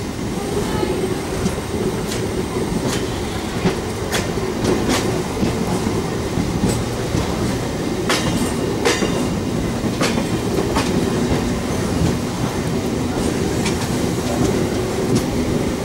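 MEMU electric multiple unit running, heard from the coach doorway: a steady rumble and hum with many sharp, irregular wheel clicks as the wheels cross rail joints and the points from the loop line onto the main line.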